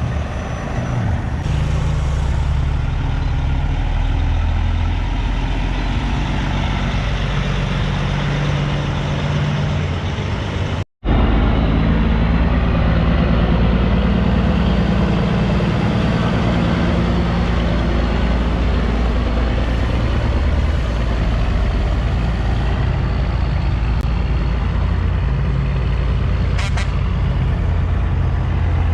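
Heavy diesel semi-truck engines running as big rigs roll in, a deep steady rumble. The sound cuts out for a moment about eleven seconds in, then the engine noise resumes.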